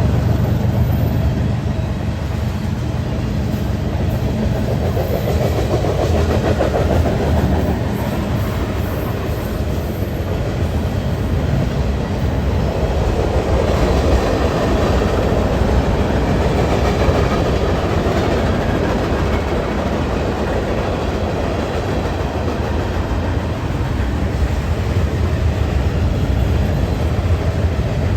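Train cars rolling past at steady speed, a loud continuous rumble with wheels clattering over the rail joints.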